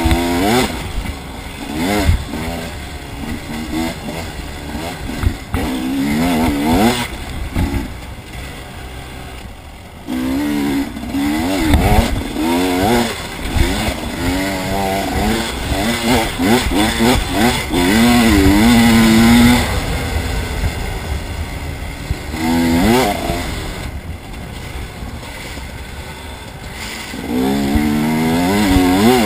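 Motorbike engine revving up and down over and over as the rider works the throttle and changes gear, with a few sharp knocks along the way.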